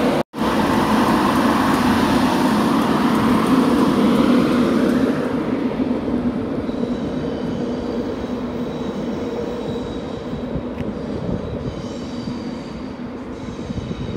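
Class 91 electric locomotive and its express coaches passing at speed: a loud rushing rumble of wheels on rail that holds for about five seconds, then fades away as the train recedes.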